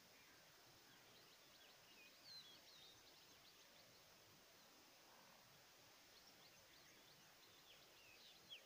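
Faint outdoor ambience with scattered short, high bird chirps, one standing out about two seconds in and another near the end.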